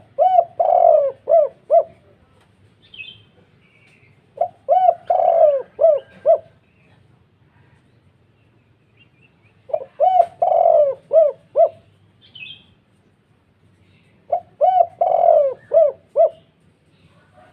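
Spotted dove cooing its deep, full-voiced call four times, about every five seconds. Each phrase is a few short coos around one longer middle note. A small bird chirps briefly twice between the phrases.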